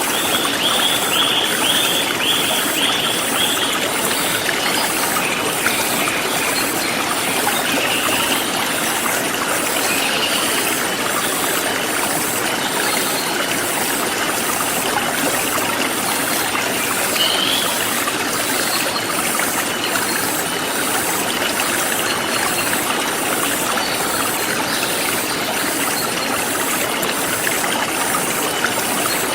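Forest stream flowing steadily, with a bird trilling briefly near the start and a few short bird chirps later. A steady, evenly pulsing high insect chirring runs underneath.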